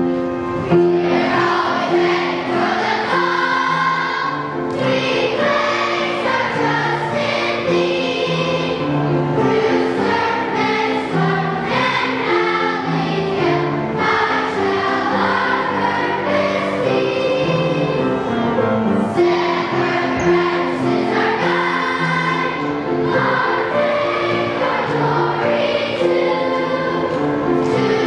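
Elementary school children's choir singing a song with instrumental accompaniment.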